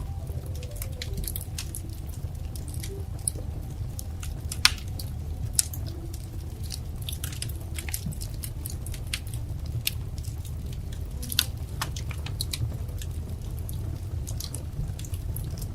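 Wood fire crackling: irregular sharp snaps and pops over a steady low rumble, with a few louder pops about five seconds in and again about eleven seconds in.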